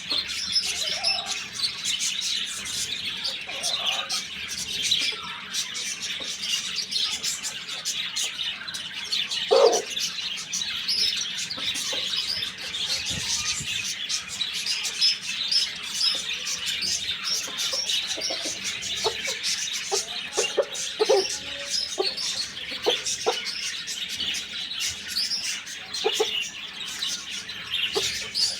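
Many small birds chirping in a dense, continuous chatter, with a scatter of short, lower sounds now and then, the loudest about ten seconds in.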